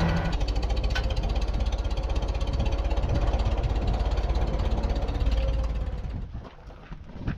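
Tractor engine dropping from a fast, steady run to a low idle with an even, pulsing beat just after the start, then falling away sharply about six seconds in.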